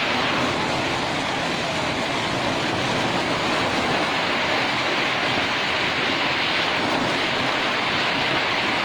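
Hail falling heavily, a dense, steady hiss of countless small impacts that holds without pause.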